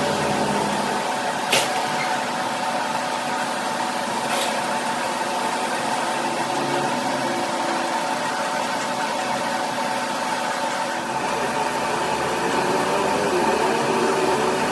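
Steady machine hum with a few held tones, broken by two sharp clicks in the first few seconds.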